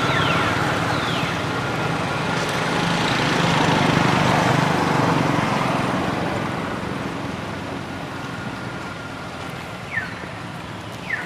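A motor vehicle running, growing louder about four seconds in and then slowly fading, with a couple of short falling squeaks near the end.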